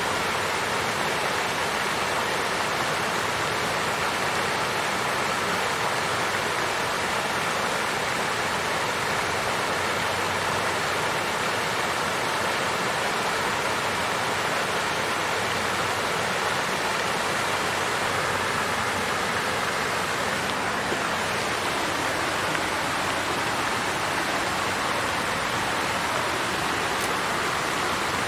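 Water fountain with water flowing and splashing in a steady, unchanging rush.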